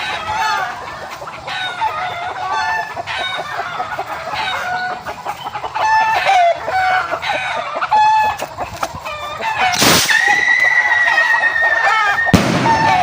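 Chickens clucking throughout. About ten seconds in, a whistle rocket goes off with a sharp burst and whistles on one steady high note for about two seconds, then bangs near the end.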